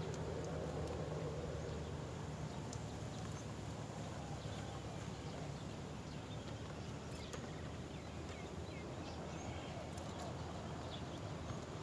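Outdoor background noise with a steady low hum, dotted with scattered faint clicks and short high chirps.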